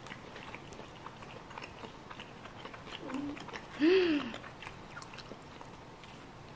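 A person chewing food close to the microphone: soft wet clicks and smacks of the mouth. About four seconds in comes a short hummed "mm" that rises and falls in pitch, a sound of enjoyment.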